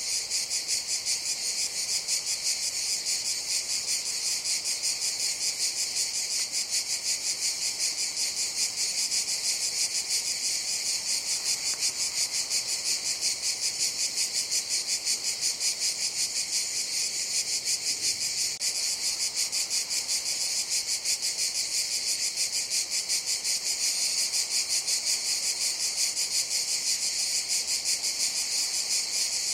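Cicadas buzzing in a steady, high-pitched chorus with a rapid, even pulse.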